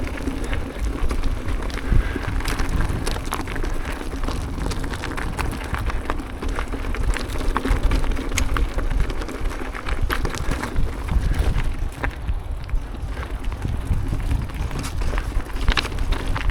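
Full-suspension mountain bike (Norco Fluid FS A3) rolling down a rough dirt and rock trail: knobby tyres crunching over the ground, with many quick clicks and rattles from the bike and stones. There is a steady low rumble from wind on the helmet-mounted microphone.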